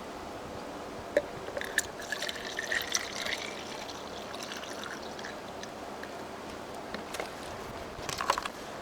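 Water trickling and pouring, with a cluster of sharper splashes and knocks a second or two in and another short burst near the end.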